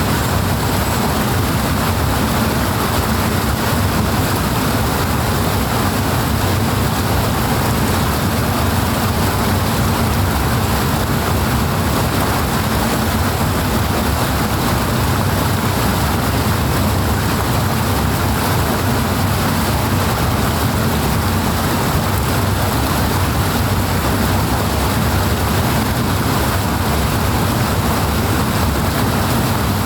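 Steady, powerful rush of flowing water, unbroken and unchanging.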